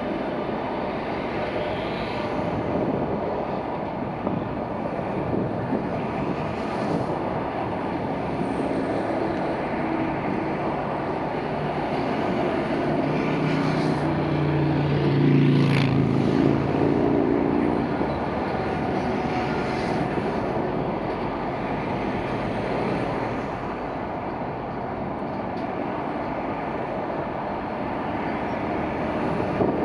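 Intermodal freight train passing, its wagons rolling steadily over the rails with a constant rumble. A louder hum swells about halfway through, with a brief sharp click.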